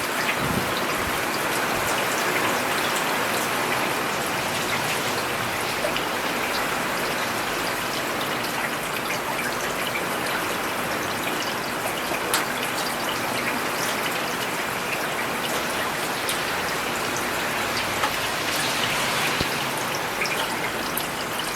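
Steady rain falling on a paved urban road: an even hiss of rainfall with many scattered sharp drop ticks, one clearer tick about twelve seconds in.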